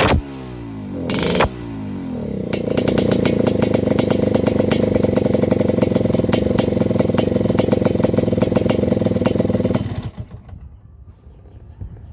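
Yamaha RX King's two-stroke single-cylinder engine, tuned rich, being revved. Two quick throttle blips come first, then it is held at steady high revs with a crackling rattle for about seven seconds, and it is cut back sharply near the end.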